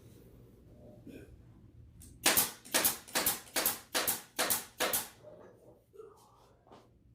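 A staple gun firing seven or eight staples in quick succession, about three a second, fastening stretched pool table bed cloth.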